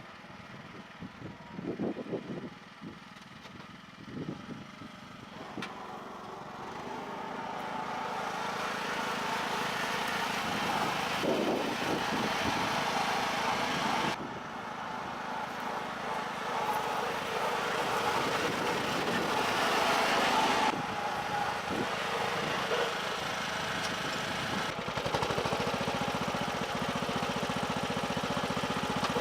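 Small engine of a homemade garden tractor running. It grows louder over the first several seconds, then runs steadily, with a short drop about halfway through.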